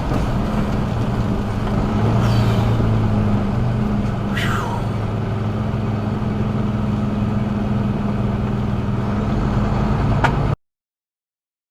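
Vehicle driving, with steady engine and road noise as a low hum. Two brief falling squeals come about two seconds apart, and there is a sharp click near the end. Then the sound cuts off abruptly.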